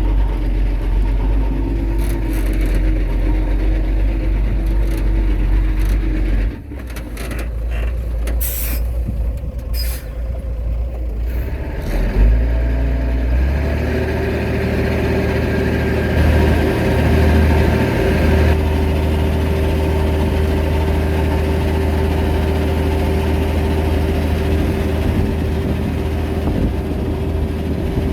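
Heavy diesel earthmoving machinery running steadily. The engine note drops about six seconds in, a few metallic clanks follow, then a steady higher engine note takes over.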